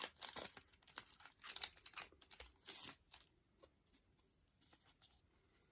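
Packaging around photo cards crinkling and tearing as they are unwrapped by hand: a quick run of short rustles for about three seconds, then only faint small handling noises.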